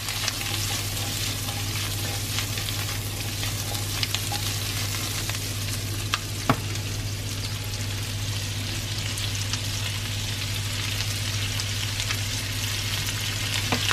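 Bacon and green beans sizzling steadily in a frying pan as they are tossed and stirred, with a few short clicks, the sharpest about six and a half seconds in.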